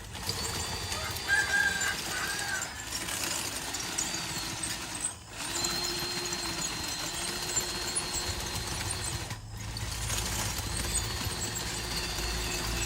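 Electric motors of RC construction machines whining steadily in stretches of a few seconds, each starting and stopping, over a low rumble. A short bird call, about a second in.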